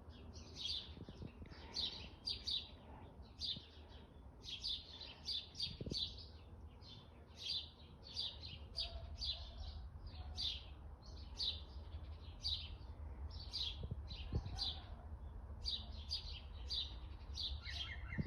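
Garden birds chirping: clusters of short, high notes about every second. Near the end a green woodpecker starts a run of lower, evenly repeated notes, its alarm call.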